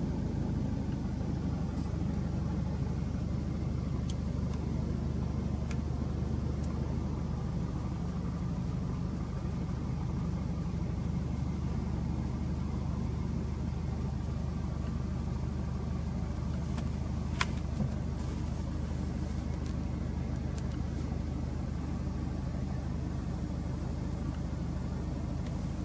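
Subaru Impreza WRX STI (GDB) turbocharged 2.0-litre flat-four idling steadily through an aftermarket APEXi muffler, heard from inside the cabin. A single brief click about two-thirds of the way through.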